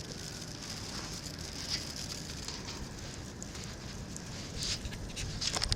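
Wood fire burning in an Ooni Karu 16 pizza oven: a steady hiss with scattered small crackles and pops.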